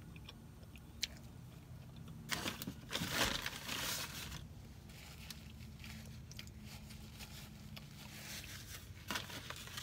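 A person chewing a bite of crispy chicken biscuit close to the microphone. A paper napkin rustles loudly from about two to four and a half seconds in and again near the end as it is wiped across the mouth, over a steady low hum.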